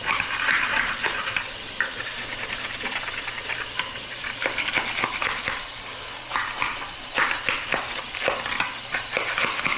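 Zebra finches splashing in a shallow water bath, with quick irregular flicks and spatters of water.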